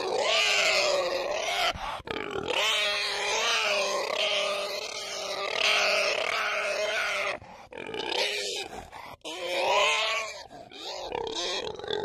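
Pigs grunting, one pitched call following close on another; the calls grow shorter and more broken in the second half.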